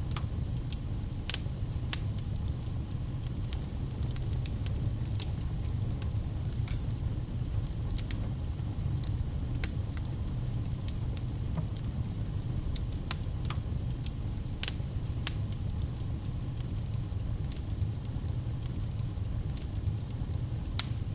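Wood campfire crackling: irregular sharp pops and snaps, a few each second, over a steady low rumble of the burning fire.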